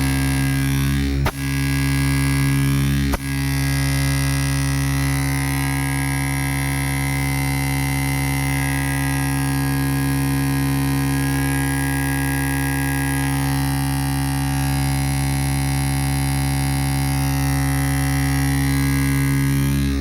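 Steady electrical hum with a buzzing, noisy edge, briefly cut off twice in the first few seconds.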